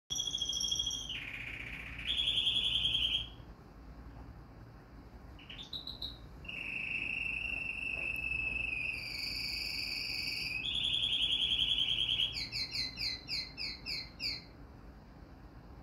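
A small songbird singing: long, fast, high trills and held whistled notes, broken by a short pause, then a quick run of about nine falling chirps, about four a second, near the end.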